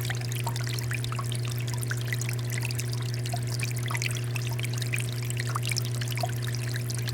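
Water fountain flowing: water steadily pouring and splashing, with a constant patter of small drops over a steady low hum.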